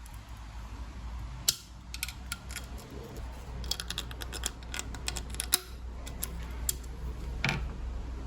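Irregular sharp clicks and taps of hand tools and small metal parts being handled during a motorcycle fork service, clustered around the middle, with the loudest clacks about a second and a half in and again about five and a half seconds in.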